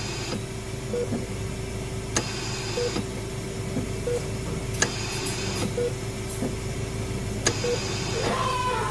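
Sound-effect hospital ambience: a constant electrical hum under short single beeps about every one and a half to two seconds, like a patient monitor, and a click followed by a hiss every two and a half seconds or so, like a ventilator. Near the end a falling, wavering tone comes in.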